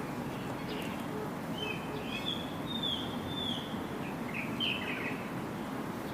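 Small birds chirping: a run of short whistled notes in the second to fourth seconds and another couple near the fifth, over a steady background hiss.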